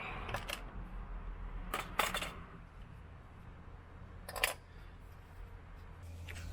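Sharp metallic clicks and clinks of hand tools and metal parts being handled, with a cluster about two seconds in and a brief ringing clank about four and a half seconds in, over a steady low hum.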